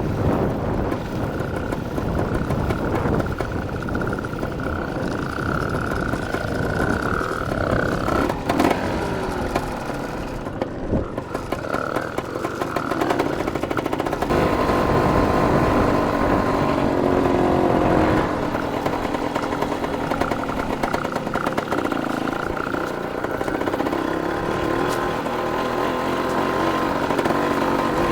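Dirt bike engine running as the bike is ridden along a trail, its pitch rising and falling with the throttle.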